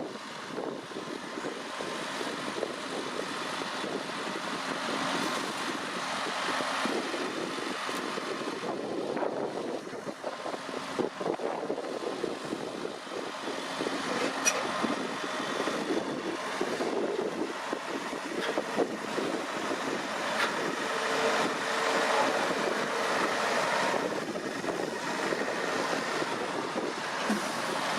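Deutz-Fahr 6150.4 tractor with its four-cylinder diesel running steadily under load while working a potato harvest, a continuous mechanical running noise with a few faint ticks.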